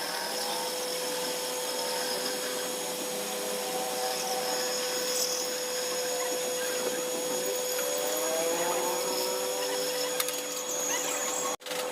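A motorised tool running steadily with a constant whine, cutting out abruptly for a moment near the end.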